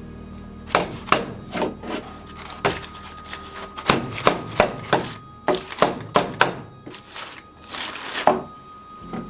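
Hammer blows on a car body's metal panel, about fifteen sharp, irregular strikes at roughly two a second.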